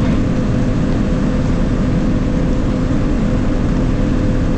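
Self-propelled forage harvester running steadily while chopping corn, heard from inside its cab, with a constant engine hum.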